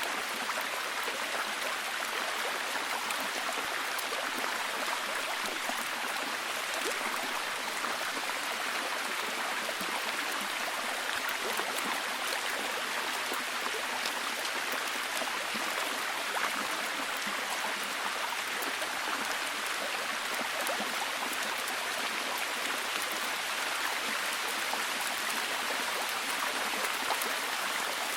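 Steady, heavy rain falling, an even hiss with fine scattered drop ticks.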